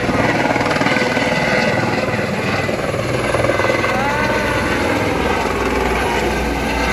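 Helicopter rotor blades chopping steadily in a fast, even beat, with the engine running underneath.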